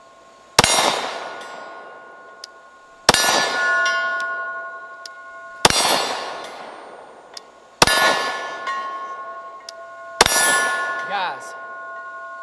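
Five slow, single 9mm pistol shots from a Glock P80, about two and a half seconds apart. Each shot is followed by the long metallic ring of a struck steel target, which dies away before the next.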